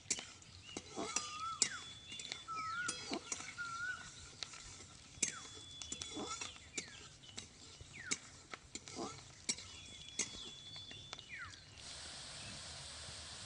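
Birds calling: short whistled notes that slide down in pitch, with sharp clicks between them. Near the end, frying in the pan starts sizzling steadily.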